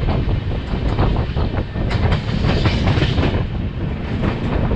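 Durg Humsafar Express running along the track: a steady, loud rumble of wheels on rail with a rapid clickety-clack of clicks over the rail joints. A rushing hiss rises about two seconds in and fades after about a second.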